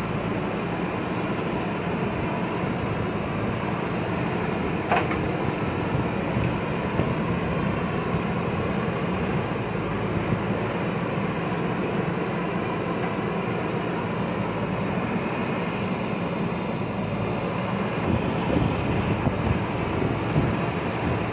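JCB backhoe loader's diesel engine running steadily while working, with one short sharp clank about five seconds in.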